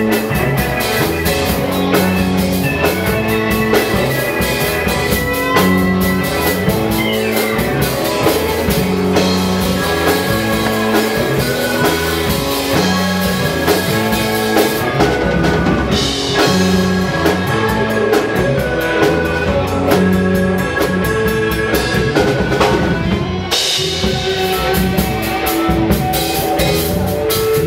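Live rock band playing an instrumental stretch of a song, with drum kit and guitar over a steady beat and cymbal crashes now and then.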